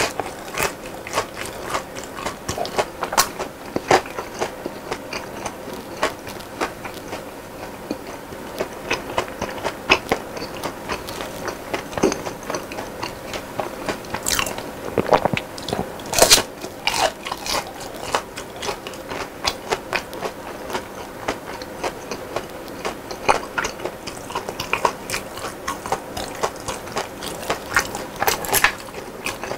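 Close-miked chewing and biting of crispy fried chicken and fried snacks, with irregular sharp crunches and wet mouth sounds. The crunches come louder in clusters about halfway through and again near the end.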